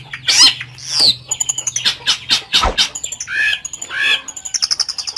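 Long-tailed shrike singing a fast, varied song of harsh squawks, downward-sweeping whistles and rapid chattering trills, packed with phrases mimicked from other birds. A quick, even buzzing trill starts near the end.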